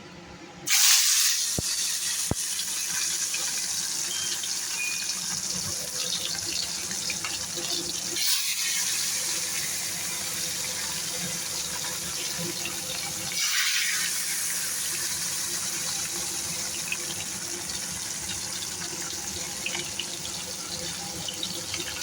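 Pieces of fasha fish dropped into hot mustard oil in a nonstick kadai, sizzling. A sudden loud sizzle starts about a second in and keeps going, and it swells again about 8 and 13 seconds in as more pieces go in.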